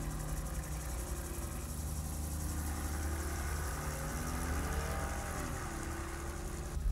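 Mercedes-AMG GT's twin-turbo V8 running at a steady cruise: a constant low drone, with a fainter engine note that rises and falls about halfway through.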